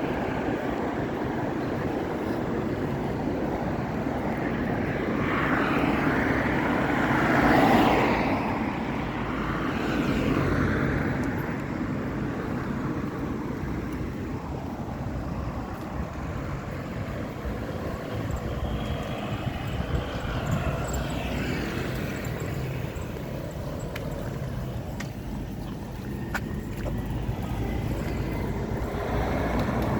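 Steady road traffic noise with vehicles going past, and one louder vehicle passing about seven or eight seconds in.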